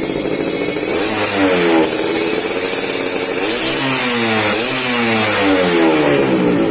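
Yamaha F1ZR's two-stroke single-cylinder engine revving through a crisp-sounding exhaust. It idles briefly, then is revved up and back down twice, the second rev longer.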